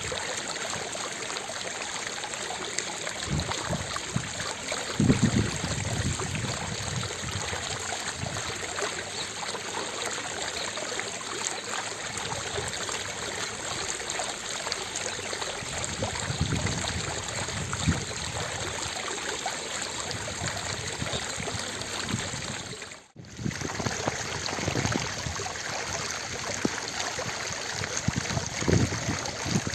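Fountain water splashing and falling steadily into its basin, with a few stronger low surges, and a momentary break in the sound about three-quarters of the way through.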